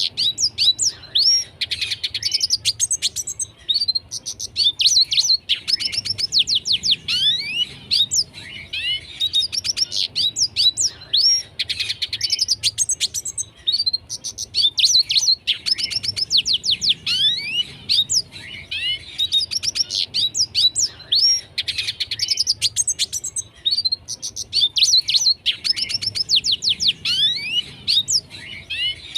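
Red siskin singing an energetic, continuous twittering song: phrases of a few seconds made of rapid chirps, quick up-and-down whistled slurs and trills, separated by brief pauses and repeated over and over.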